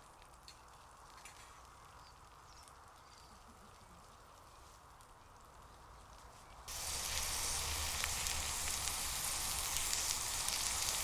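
After several seconds of near quiet, hot dogs and onions frying in a pan start sizzling loudly and suddenly about seven seconds in, a steady hiss.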